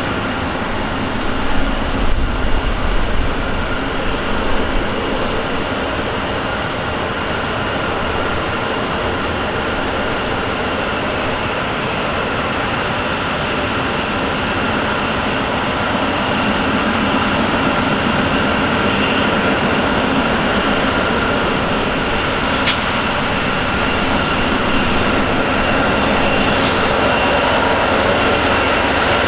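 Two diesel freight locomotives hauling a double-stack container train as they approach: a steady engine and rail rumble with a faint whine that grows slowly louder. A single sharp click comes about three quarters of the way in.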